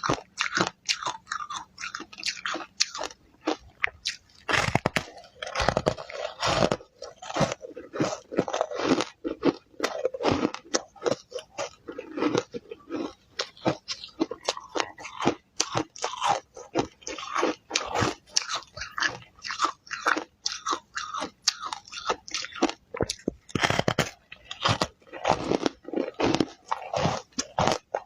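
Ice dusted with matcha powder being bitten and chewed close to the microphone: rapid, irregular crunching, with a few heavier bites.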